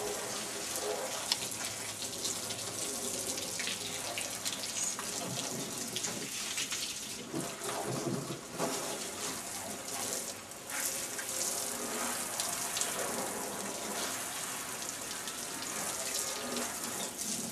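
Garden hose spraying water onto a car's bodywork, a steady rushing spray with brief dips as the stream moves.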